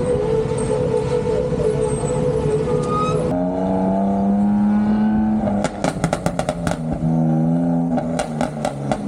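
Car engine running while driving, its tone stepping to a new pitch a couple of times, with a run of quick rattling clicks in the second half.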